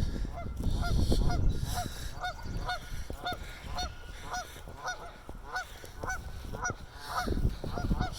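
A group of waterfowl calling: a rapid, steady run of short honking calls, several a second and overlapping.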